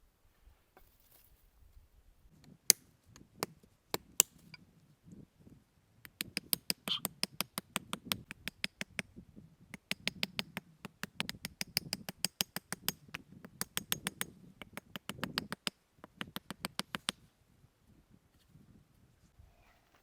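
A few single sharp taps, then from about six seconds in, quick runs of evenly spaced sharp taps, about seven a second, broken by short pauses and stopping a few seconds before the end.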